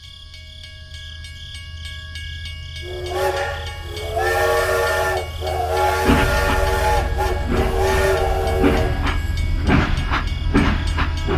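A horn or whistle sounding a chord of several steady pitches in three long blasts, over a steady low hum, with a run of sharp clicks near the end.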